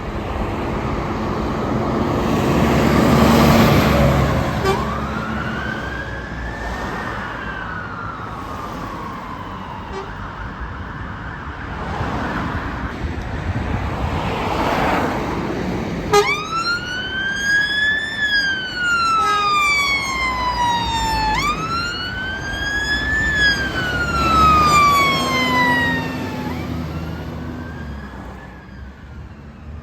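Fire service emergency vehicle sirens sounding a wail, a quick rise then a slow fall repeating about every five seconds. The sirens get much louder about halfway through and fade near the end. Vehicles drive past with a swell of road noise twice.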